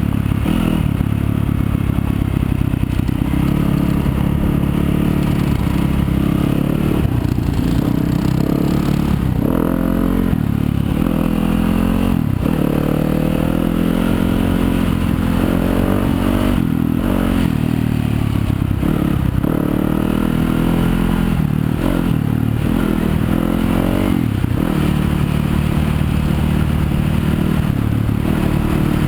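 Yamaha YZ250FX's 250 cc single-cylinder four-stroke engine running under way on a trail ride, its revs rising and falling with the throttle, with a few knocks and rattles.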